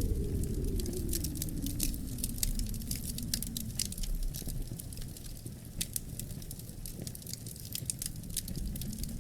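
Wood fire crackling in a fireplace: many irregular sharp pops and snaps over a low rumble of burning, which thins in the middle and swells again near the end.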